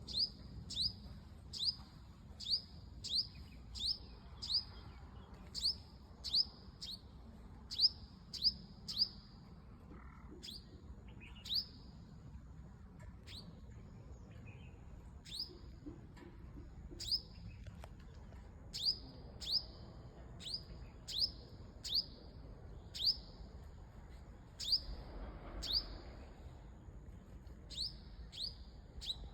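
A bird repeating a short, high chirp that falls in pitch, about two a second, with a sparser stretch in the middle before the steady series resumes.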